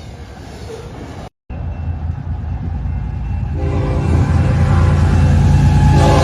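Approaching train: the locomotive's low rumble grows louder. About three and a half seconds in, a multi-tone horn chord starts and keeps sounding.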